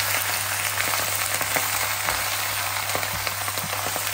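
Spinach leaves sizzling in hot oil in a nonstick frying pan as a spatula stirs them, with a steady low hum underneath.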